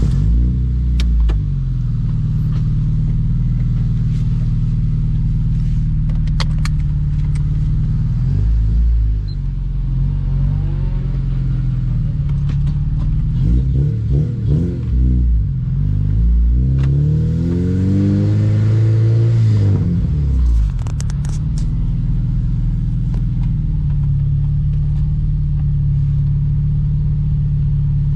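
A 2007 Honda Civic Si's 2.0-litre four-cylinder engine running, its pitch rising and falling several times as the revs go up and down, then settling to a steady note for the last several seconds. A few sharp clicks sound along the way.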